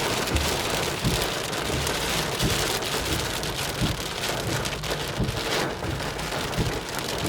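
Heavy wind-driven rain pelting a car's roof and windows during a thunderstorm's gust front, heard from inside the car. It is a dense, steady hiss of rain with dull low buffets from strong wind gusts.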